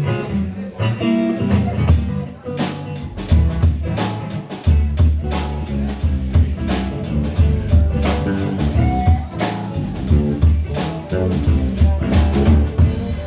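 Live band music: guitar playing, with a drum kit coming in about two and a half seconds in and keeping a steady beat from there on.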